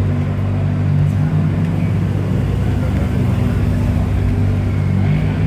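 A car engine idling steadily with an even, low hum.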